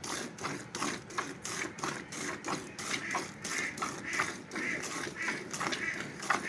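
Cow being milked by hand: jets of milk squirting into a bucket in a steady rhythm, about three squirts a second.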